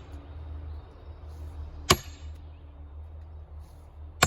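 Sledgehammer striking a steel wedge driven into a large block of firewood: a sharp metallic clang with a brief ring about two seconds in, and another at the very end.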